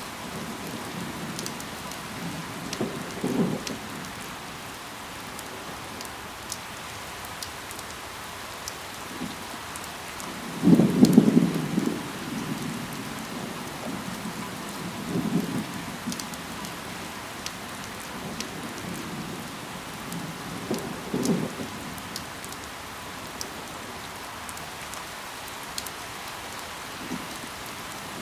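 Steady rain falling on leaves, with single drops ticking through it. A few brief low rumbling swells rise over it, the loudest about eleven seconds in.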